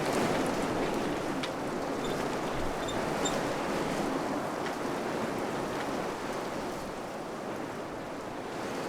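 Wind blowing steadily in gentle gusts, a rushing noise that eases a little near the end, with a few faint high ticks.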